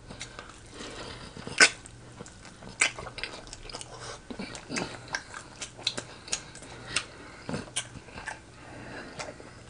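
Close-miked chewing of pork chop in gravy: wet mouth smacks and clicks at irregular intervals, a few a second, the loudest about a second and a half in.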